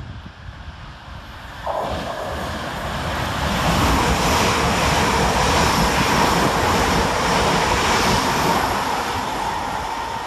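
Two coupled Class 350 Desiro electric multiple units running through the station. Their noise comes in suddenly about two seconds in with a steady high whine, swells to its loudest in the middle and eases off near the end.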